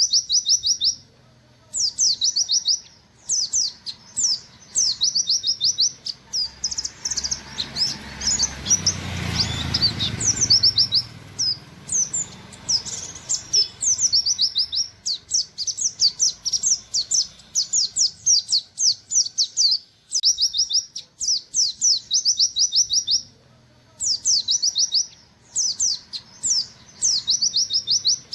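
A pleci buxtoni white-eye singing a rapid 'nembak' song: quick runs of high, steeply down-slurred 'wit wit' notes in bursts a second or two long, separated by short pauses. A low rumble sounds under the song for a few seconds near the middle.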